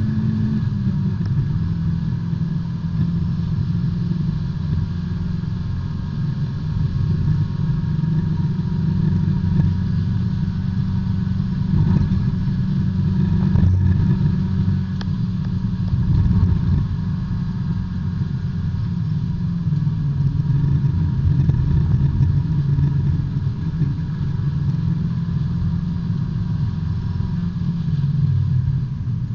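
B-Spec subcompact race car engine heard from inside the cabin, running under load, its pitch stepping down and up with throttle and gear changes.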